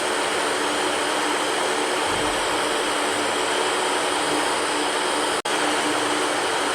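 Electric fan running steadily: an even rushing whoosh with a faint hum underneath, broken by a split-second dropout about five seconds in.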